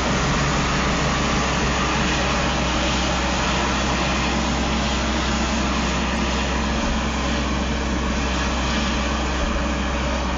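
Diesel engines of Caterpillar 657 wheel tractor-scrapers running steadily under heavy load while the scrapers load.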